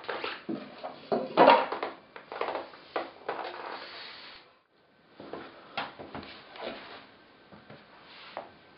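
Irregular knocks, clicks and rustling of an unboxing being handled, loudest about one and a half seconds in, with a brief pause about halfway.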